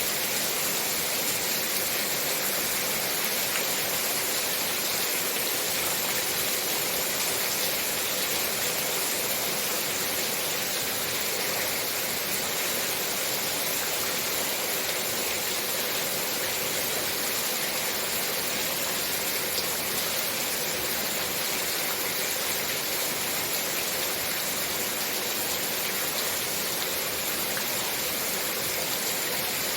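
Heavy rain falling steadily, an even, unbroken rushing noise.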